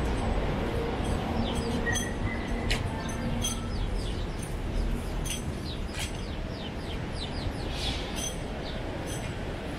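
Small birds chirping in many quick, short, falling notes over a steady low city rumble.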